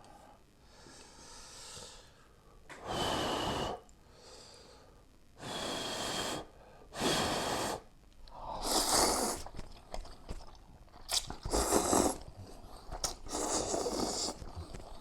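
Ramen noodles being slurped up hard from a bowl of hot beef broth, in about six long slurps of a second or so each, with quieter chewing between them.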